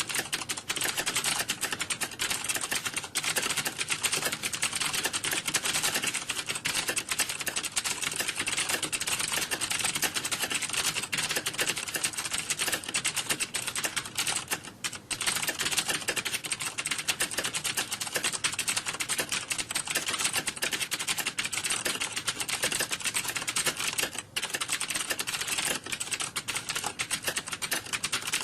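Computer keyboard typing: rapid, dense key clicks going on without a break, dipping briefly about 15 seconds in and again about 24 seconds in.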